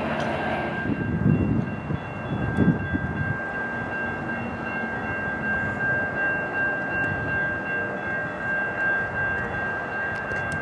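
A train passing on the rails: a steady rumble of wheels and cars with a few louder knocks about one and two and a half seconds in, and a steady high tone held throughout.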